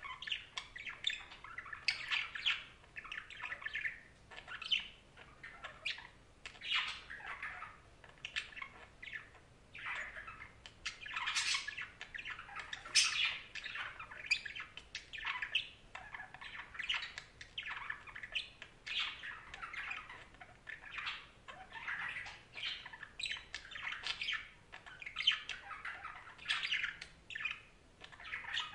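Budgerigars (budgies) chattering, with continuous chirps, warbles and squawks overlapping one another.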